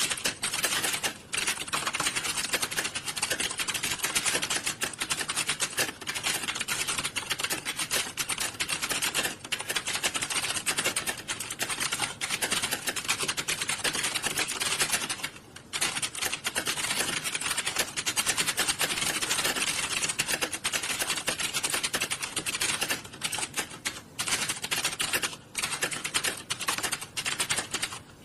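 Computer keyboards in an exam-hall typing test, keys struck rapidly in a dense, continuous clatter, with a brief lull about fifteen seconds in.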